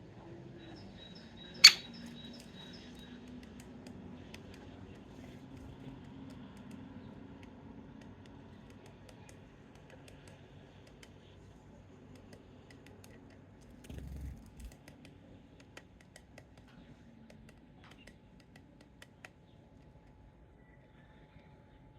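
A single sharp metallic click that rings briefly, about two seconds in, among faint scattered taps over a low steady hum, with a dull thump a little after the middle.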